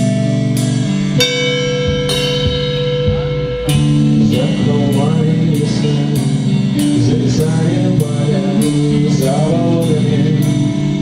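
Band playing a blues-rock song: guitar chords over a steady drum-kit beat. About a second in, the beat stops under a held guitar chord, then comes back near the four-second mark with a voice singing over it.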